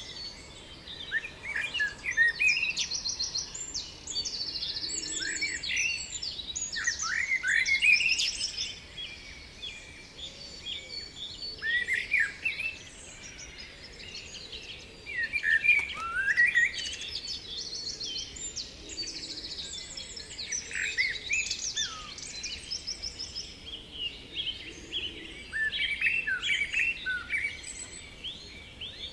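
Several songbirds singing at once: a busy, overlapping mix of quick falling chirps and fast trills that carries on without a break.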